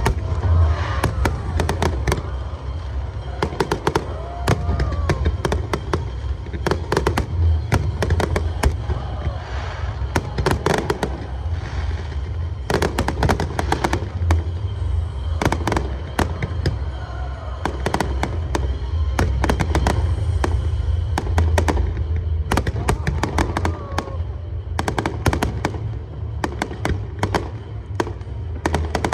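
An aerial fireworks display, with shells bursting almost continuously: deep booms over a dense, rapid crackle of sharp reports.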